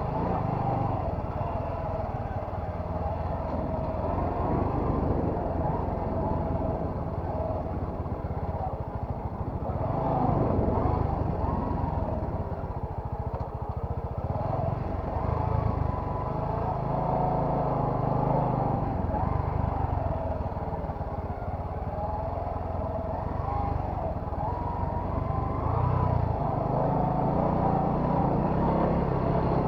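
Bajaj Boxer motorcycle's single-cylinder engine running under way, its note rising and falling with the throttle.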